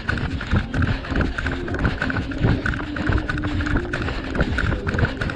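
A runner's footfalls on pavement, an even run of thumps about three strides a second, picked up by a body-worn action camera that jolts with each stride.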